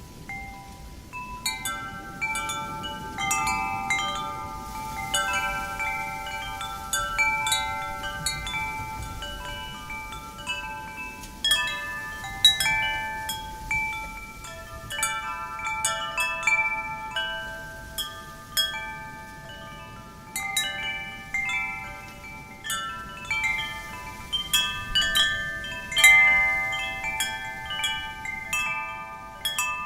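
Metal wind chimes struck by the wind, clusters of clear ringing tones that overlap and fade, coming and going irregularly over a faint wind hiss.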